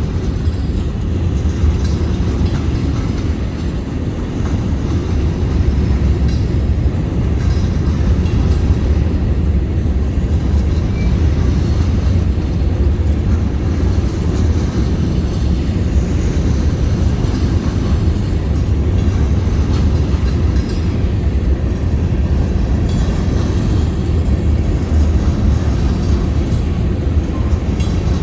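Freight train rolling past slowly: a steady low rumble of wheels on the rails, unbroken throughout.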